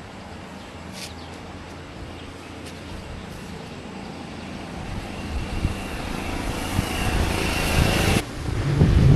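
Motor vehicle road noise growing steadily louder, with a sudden break near the end followed by heavy wind buffeting on the microphone.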